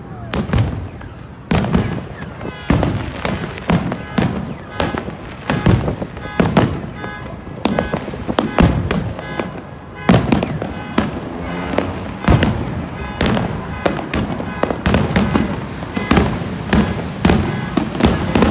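Fireworks finale: a rapid, overlapping barrage of aerial shell bursts, two or three booms a second over continuous crackling, echoing back off the surrounding skyscrapers.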